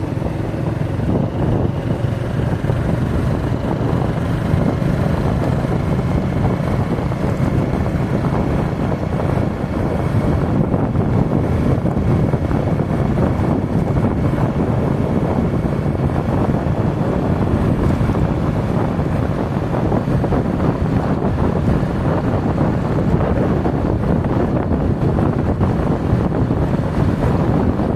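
Steady wind rush on the microphone of a moving motorcycle, with its engine running underneath.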